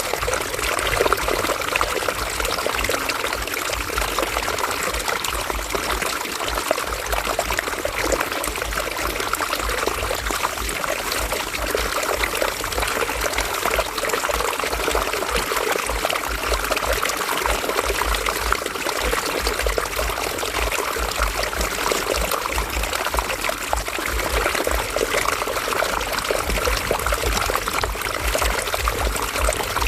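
River water flowing and trickling steadily, with an uneven deep rumble underneath.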